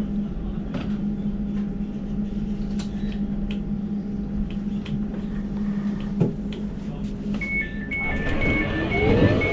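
Elizabeth line Class 345 train standing at the platform with a steady electrical hum and light clicks. About seven seconds in, the door-closing warning starts: rapid beeps alternating between two high tones, over a louder rising and falling sound as the train prepares to leave.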